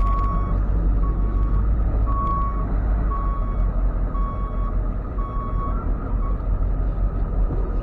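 Ford F550 tow truck's backup alarm beeping about once a second as the truck reverses, over its steady engine rumble. The beeping stops about six seconds in.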